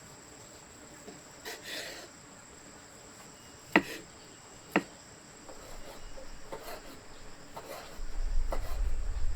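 A steady high-pitched insect drone, with two sharp knocks about a second apart midway and a low rumble coming in near the end.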